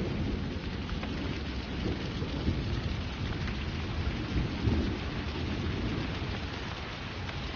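A rain shower (chaparrón) falling steadily, with a low rumble running under it.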